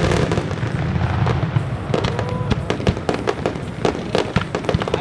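Fireworks display: dense rapid crackling and popping of bursting aerial shells, with a deep rumbling boom in the first second or so.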